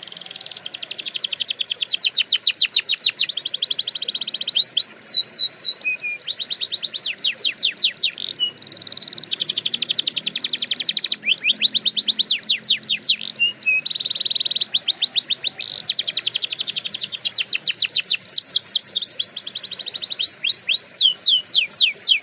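Domestic canary singing a long song of rapid trills, each a run of fast repeated notes, switching from one trill to the next every second or two, with a few brief pauses.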